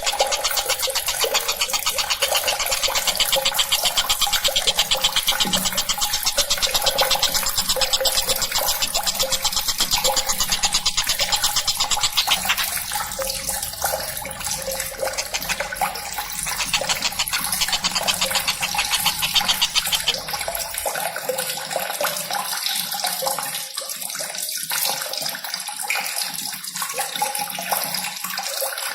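Recorded birdsong of the tengkek buto played as a masteran. It is a fast, dense chattering run of notes for the first part, turning looser and more broken about halfway through, over a steady hiss like running water.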